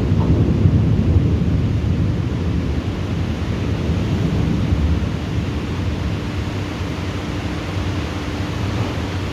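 Thunder rumbling low and slowly fading, over a steady hiss of rain. A faint steady hum comes in about halfway through.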